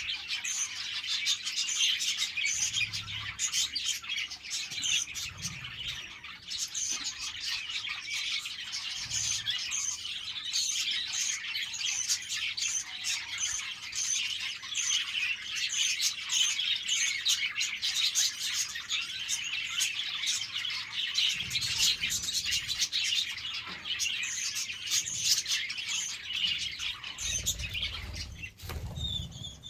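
A flock of budgerigars chirping and chattering together, a dense, continuous twittering with no pauses.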